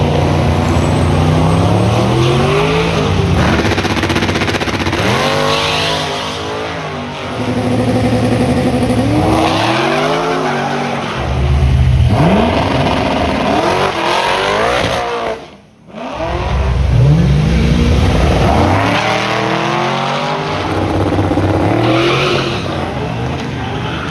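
Race car engines revving hard under acceleration, the pitch climbing and dropping again and again as the cars pull through the gears. The sound cuts out for a moment about two-thirds of the way through, then resumes.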